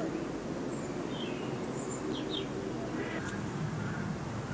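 Birds chirping in short, scattered calls over steady outdoor background noise.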